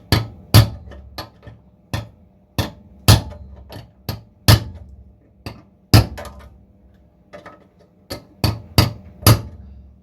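Hammer tapping on sheet-steel car body panel, about twenty sharp, irregularly spaced blows that ring briefly, fettling a repair panel into shape to fit before it is tack-welded. The strikes stop just before the end.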